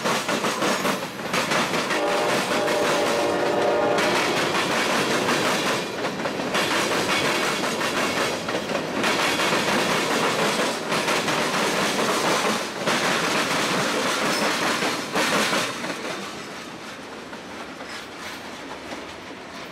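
Freight train of loaded Norfolk Southern gondolas and a tank car rolling past, its wheels clattering over the rails of a diamond crossing. A train horn sounds faintly in the first few seconds, and the clatter fades near the end as the last car goes by.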